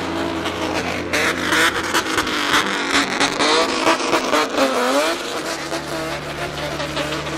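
A modified vehicle's engine revving, its pitch rising and falling several times between about one and five seconds in, with a steady low engine hum before and after.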